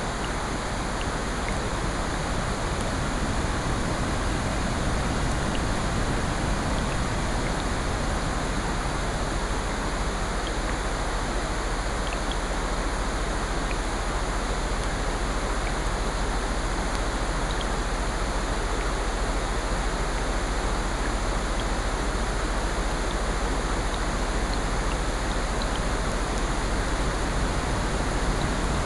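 Mixed sleep soundscape of rain and ocean surf with a fireplace: a steady, even hiss with faint scattered crackles.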